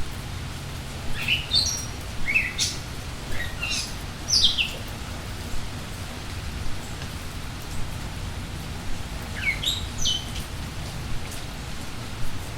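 Steady rain with birdsong over it: a run of quick, sweeping chirps in the first few seconds, then another short phrase a little past the middle.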